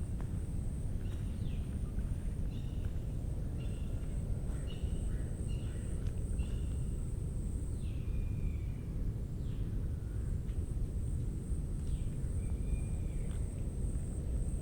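Mangrove forest ambience with birds giving repeated short, falling calls and a steady high-pitched insect drone, over a constant low rumble.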